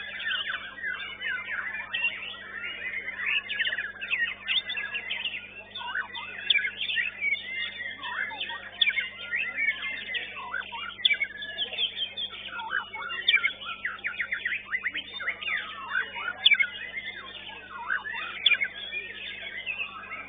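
Many white-rumped shamas (murai batu) singing at once in a songbird contest: a dense, overlapping tangle of fast whistles, sweeps and chirps, over a faint steady low hum.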